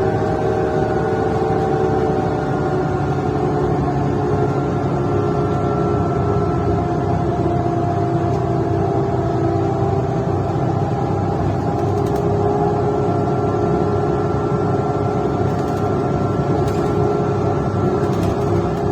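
Mercedes-Benz O530 Citaro C1 intercity bus running along, heard from inside: a steady, loud engine and exhaust drone, its tones sinking slowly in pitch over the first half. The exhaust is defective.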